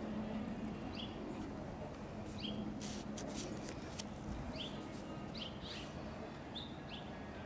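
Small birds chirping in short, repeated calls, over a low steady hum. A few sharp clicks come about three seconds in.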